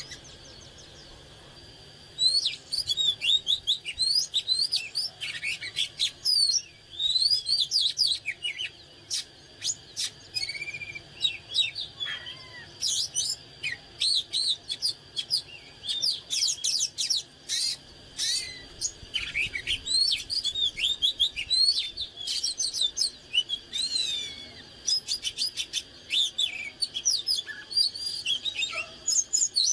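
Oriental magpie-robin singing: a fast, varied run of clear whistles, chirps and sweeping notes, starting about two seconds in and going on with only short pauses.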